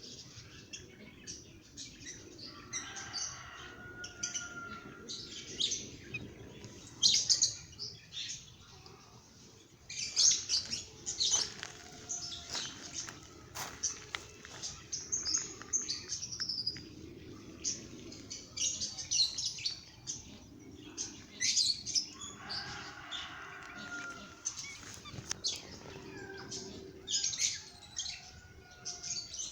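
Birds chirping and calling, many short, sharp chirps throughout, with lower, drawn-out calls about three seconds in and again around twenty-two seconds.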